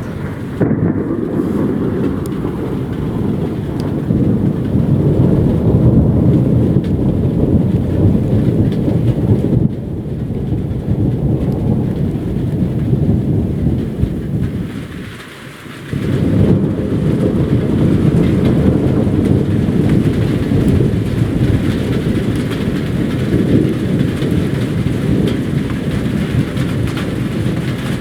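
Thunderstorm: long, loud low rumbles of thunder over steady heavy rain. The rumble dies away to a brief lull about halfway through, then a second roll starts, with the rain hiss louder.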